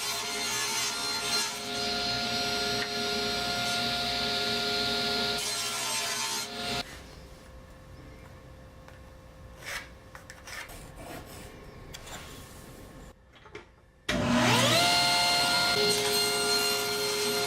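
Electric saw cutting wood: the motor runs with a steady hum and cutting noise for about six seconds, then stops. A quieter stretch of scattered knocks follows. About fourteen seconds in, the motor spins up again with a rising whine that levels off, and it runs on steadily.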